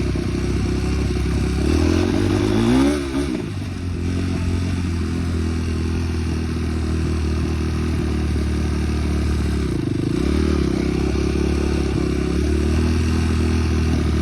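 Small off-road vehicle engine running steadily under throttle. It revs up and falls back about two to three seconds in, and drops briefly around ten seconds before picking up again.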